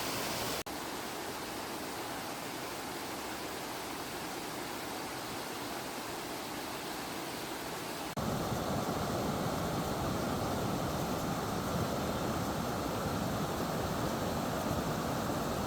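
Fast-flowing stream water rushing steadily below a dam. It cuts abruptly twice, and after the second cut, about eight seconds in, the rush is louder and deeper.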